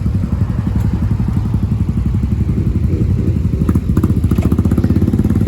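A motorcycle engine idling steadily close by, its exhaust pulsing fast and evenly.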